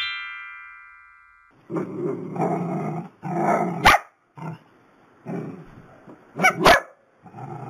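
A chime of ringing tones dies away over the first second and a half. Then two dogs growl and bark in a string of short bursts, with two sharp clicks among them.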